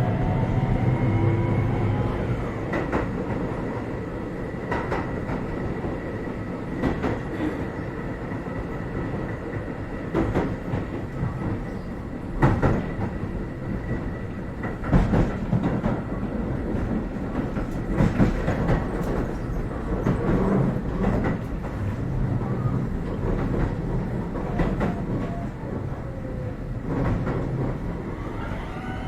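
Keio 7000 series electric train running at speed, heard from inside the car: the traction motor whine fades out about two seconds in as the train coasts. Wheels click and clack over rail joints, and the motor whine rises again just before the end as power comes back on.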